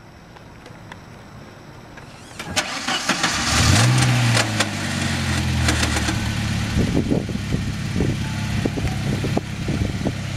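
1985 Saab 900's eight-valve four-cylinder engine cranked by the starter, catching a little over three seconds in with a brief rise in revs, then settling to a steady idle. From about halfway through, irregular short knocks or clicks sound over the idle. This is likely the unidentified bad noise the owner is asking about.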